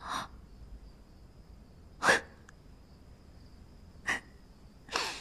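A young woman's short, sharp breaths and gasps of fright, four of them spaced a second or two apart.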